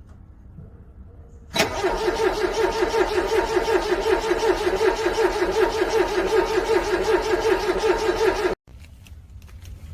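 Car engine cold-cranking on its starter with a steady rhythmic pulse for about seven seconds without catching, then cutting off suddenly.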